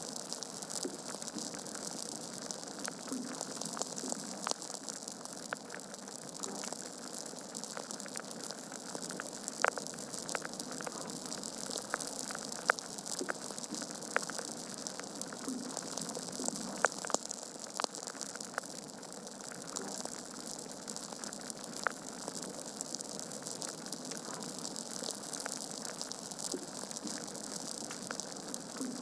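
Wood fire burning in a fireplace: a steady hiss with irregular crackles and sharp pops from the logs, a few louder pops scattered through.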